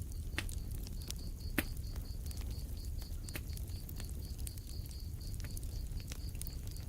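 Wood fire crackling: irregular sharp pops and snaps over a low steady rumble of the flames, with the sharpest pop about a second and a half in. A faint high chirping pulse repeats about four times a second behind it.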